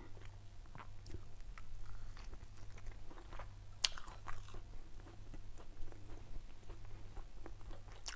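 A person chewing a mouthful of soft white-bread tuna sandwich close to the microphone, with small wet mouth clicks throughout and one sharper click about four seconds in.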